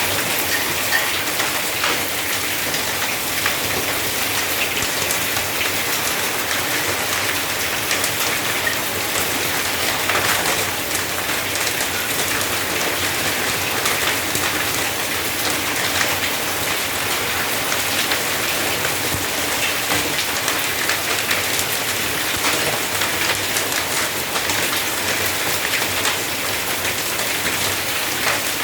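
Heavy storm rain mixed with hail pelting hard surfaces: a steady, loud hiss of rain with many sharp individual ticks of stones striking.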